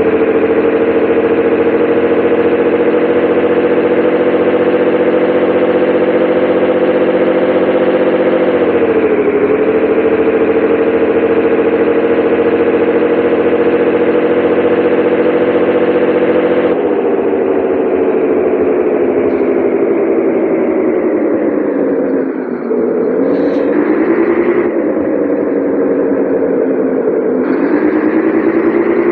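Scania 113 truck's six-cylinder diesel engine running steadily, its pitch dipping briefly about a third of the way in, then dropping and wavering in the last third before climbing again near the end.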